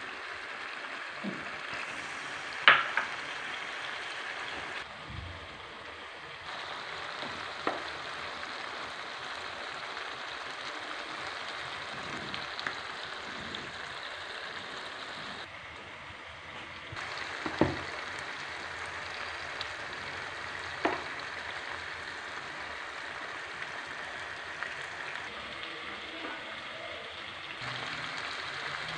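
Chicken and tomatoes frying in oil in a karahi, a steady sizzling hiss, with a few sharp knocks scattered through, the loudest about three seconds in.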